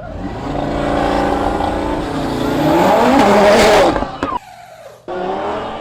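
Car engine revving hard, its pitch climbing to a peak about three seconds in and falling away. The sound cuts off abruptly near four seconds, and steady engine sound starts again about a second later.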